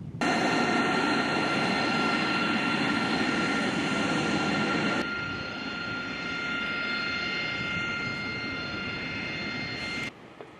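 A-10 Thunderbolt II jet engines running with a steady, multi-toned high whine over a roar. The sound starts suddenly, drops to a quieter level about halfway through and cuts off suddenly near the end.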